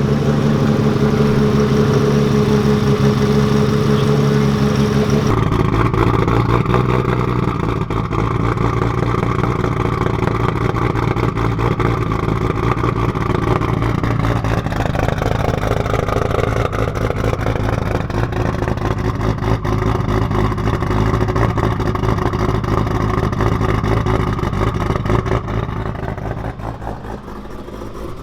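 Nissan RB28DET inline-six (a stroked RB26) with a single turbo running just after its first start, with a choppy idle. The sound changes abruptly about five seconds in, its pitch dips and comes back up about halfway through, and it gets quieter near the end.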